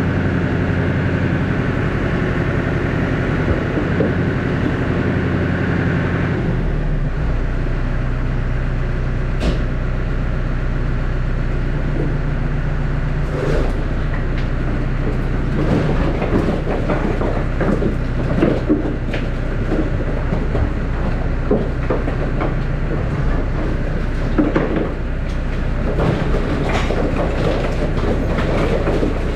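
Tractor engine running steadily, its note shifting about six seconds in. From about halfway on come irregular knocks and clatter as the load of firewood in the tipping trailer shifts.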